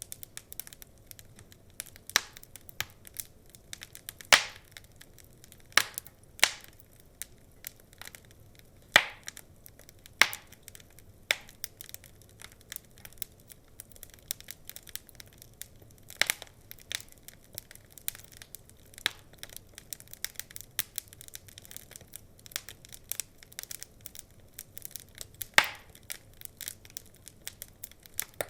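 Wood fire crackling, with irregular sharp pops and snaps over a faint low hiss, a few louder pops standing out.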